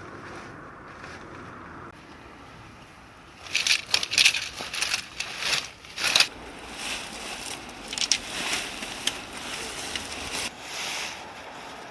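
Steady wind noise, then from about three and a half seconds in a run of sharp clicks and clatters, like hard things being handled.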